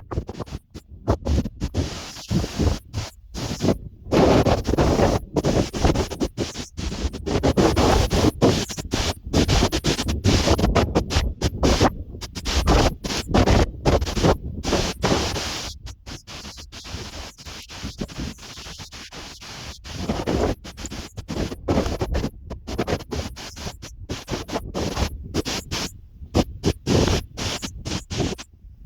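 Storm wind buffeting the microphone in gusts: rough, loud rumbling noise that keeps cutting in and out.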